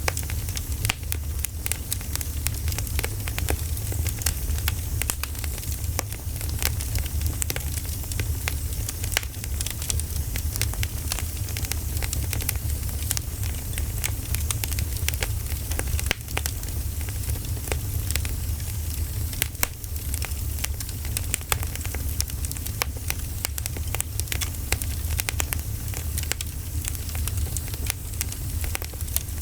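Campfire burning with a steady low rumble and many small, irregular wood crackles and pops throughout.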